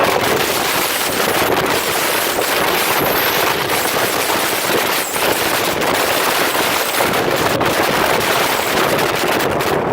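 Storm-force wind blasting over the microphone: a loud, unbroken rush with a rapid crackling flutter running through it.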